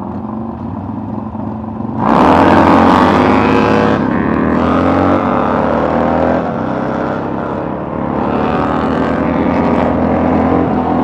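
Motorcycle engine accelerating hard at full throttle, the pitch climbing and dropping back as it shifts up through the gears a few times, with heavy wind rush. It runs at a lower, steady level for the first two seconds, then opens up suddenly and loudly.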